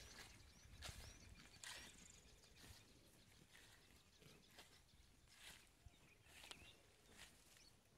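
Faint outdoor ambience: soft crunching steps on dry ground about once a second, with a few faint bird chirps.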